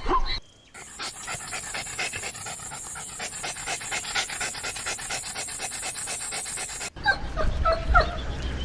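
A dog panting rapidly and evenly, several breaths a second. The panting breaks off near the end, and short, high, falling whimpers follow.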